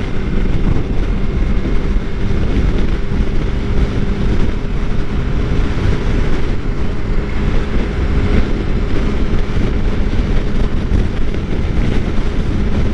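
2013 Suzuki GSX-R600's inline-four engine running steadily while the bike cruises, mixed with wind rushing over the helmet microphone.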